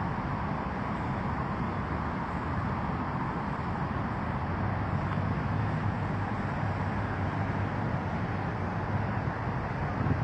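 Steady rushing road and wind noise heard while riding a bicycle, with a faint low hum joining in about halfway through.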